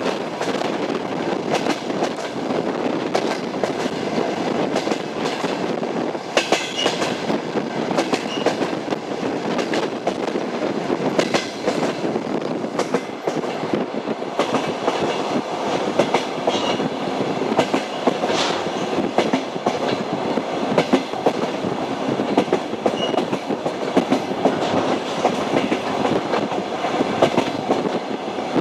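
Train wheels clattering over the rails: a steady running rumble with a dense stream of clicks and knocks, and a few brief high squeaks.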